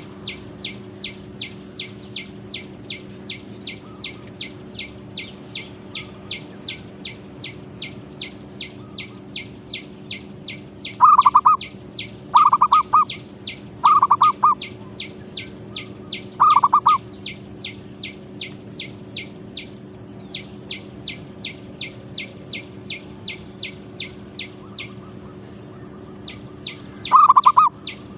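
Zebra dove (merbuk) cooing in short rolled bursts, four in quick succession in the middle and once more near the end, as a decoy works to lure a territorial wild dove. Beneath it, a high thin chirp repeats steadily about three times a second, over a faint low hum.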